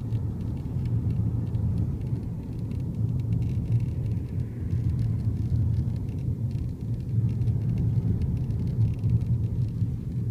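Volkswagen Passat CC running, a steady low rumble of engine and road noise.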